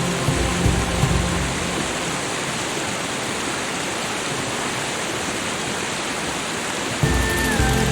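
Steady, even sound of water, with soft sustained background music that fades out in the first second or so and comes back about seven seconds in.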